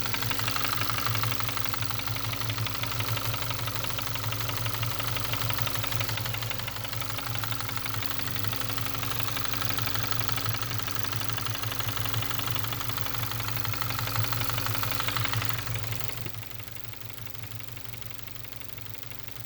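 Engine idling with a rapid, steady ticking that the owner suspects is lifter noise. About three-quarters of the way through, the sound becomes quieter and duller.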